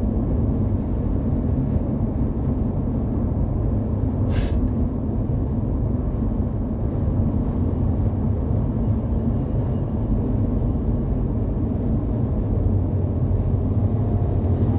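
Semi-truck driving: a steady low engine and road rumble, with one short hiss about four seconds in.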